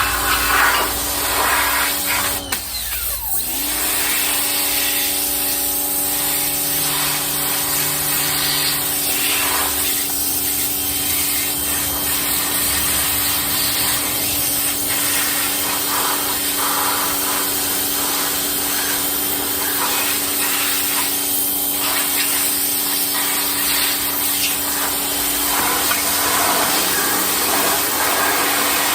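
Pressure washer running and spraying, a steady motor-and-pump hum under a hiss of water. About three seconds in the motor cuts out briefly and spins back up.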